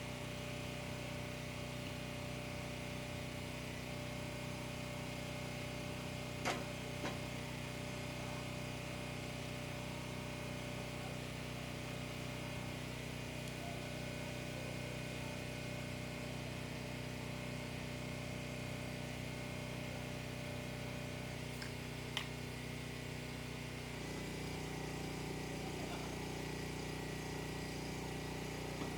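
An engine or motor running steadily with a constant hum, a few sharp clicks about six and twenty-two seconds in, and a change in its tone near the end.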